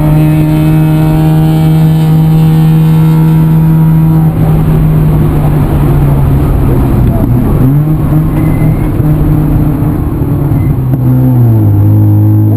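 Vehicle engine running steadily under way. Its note holds, rises again past the middle and drops to a lower pitch near the end, as when easing off or changing gear.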